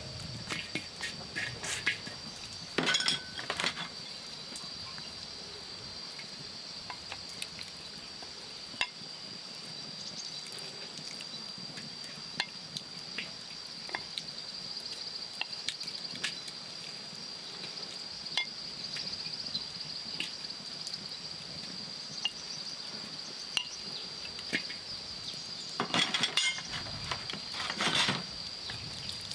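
Insects droning with a steady high-pitched whine, with scattered light clicks and knocks, and short bursts of clattering about three seconds in and again near the end.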